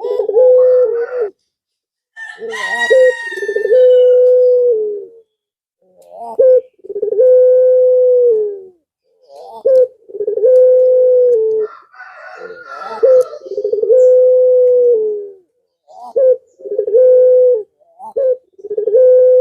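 Male puter pelung dove, a long-cooing domestic collared dove, cooing again and again: a string of long, steady low coos, each drawn out for a second or two. This is the male's call to a female.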